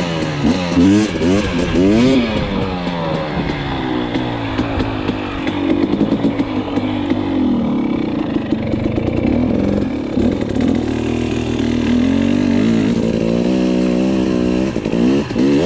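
Dirt bike engine revving up and down over and over with the throttle, steadier for a few seconds in the middle and climbing again near the end.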